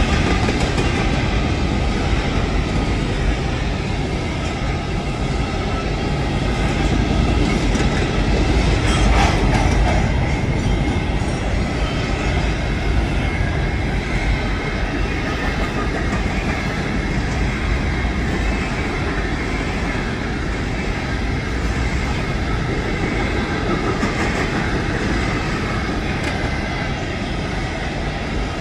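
Covered hopper cars of a Norfolk Southern grain train rolling past close by: a steady loud rumble and clatter of steel wheels on the rails, with faint high steady tones above it.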